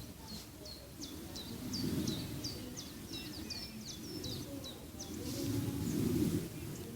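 A small songbird singing a rapid series of short, sharp downward-sweeping chirps, about three a second, that stops about five seconds in, over a low rushing background noise that swells twice.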